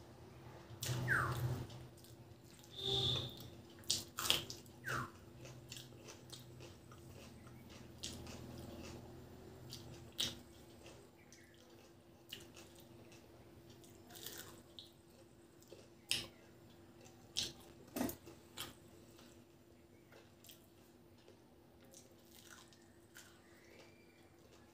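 Close-up eating sounds: wet chewing and lip smacks of rice and curry eaten by hand, in short irregular clicks with a faint steady hum underneath.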